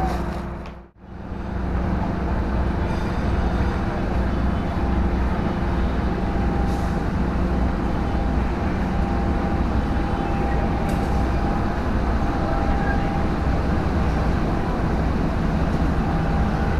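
Steady low rumble of a train idling at a station platform, with a faint steady hum on top; the sound drops out briefly about a second in.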